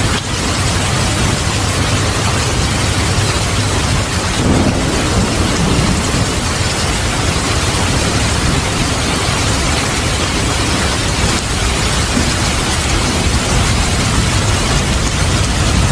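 Steady heavy rain with thunder rumbling underneath, the rumble swelling about four to six seconds in.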